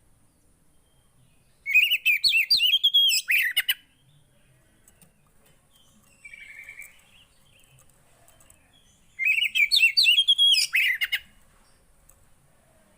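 The songbird kept in Indonesia as the 'poci' sings two loud phrases of fast, warbling chirps, each about two seconds long. One starts about two seconds in and the other about nine seconds in. A shorter, softer call comes near six seconds in.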